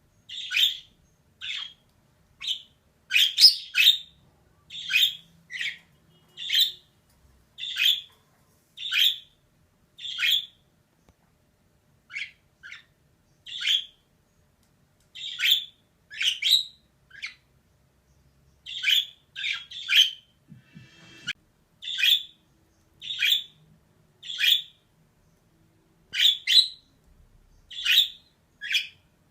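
Female budgerigar calling in short, sharp chirps, one every second or so at irregular intervals, some coming in quick pairs.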